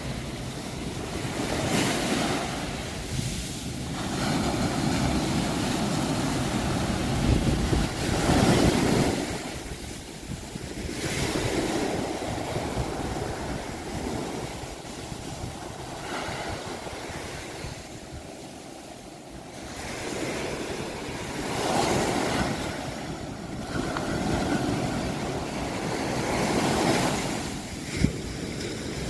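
Ocean waves breaking and washing ashore, the surf swelling and fading every few seconds. A brief sharp knock near the end.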